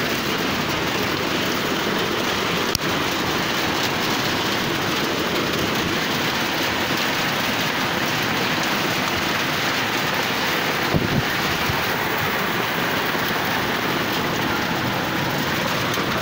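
Steady rain falling onto a puddled dirt street, an even, constant hiss. There is a brief click about three seconds in and a short low thump near eleven seconds.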